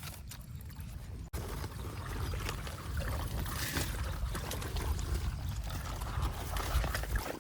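Water sloshing and splashing, mixed with a low rumble of wind or handling on the microphone, with a brief break about a second in.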